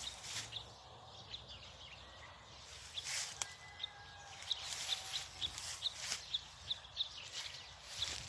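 Bird calling outdoors: short, high chirps repeated several times a second in runs, over a soft rustling.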